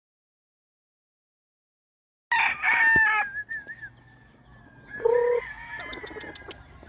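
Silence, then about two seconds in a rooster crows loudly. Fainter crowing and clucking from other chickens carries on, and a second loud crow comes in about five seconds in.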